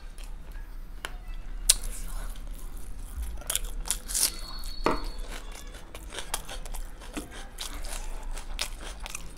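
Close-miked mouth sounds of eating biryani by hand: wet chewing with irregular sharp lip smacks and clicks.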